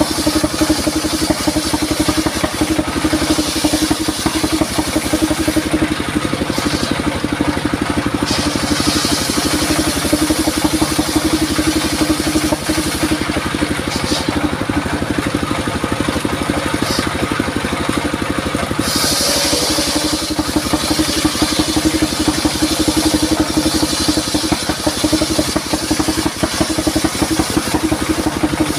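Engine-driven circular sawmill running steadily while cutting durian wood. A high hissing cutting noise over the engine eases off a few seconds in and again for several seconds past the middle, then comes back.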